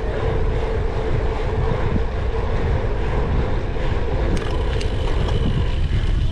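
Wind buffeting the microphone and steady rumble as a cyclocross bike is ridden at race pace, with a steady hum for the first few seconds and a few sharp clicks near the end.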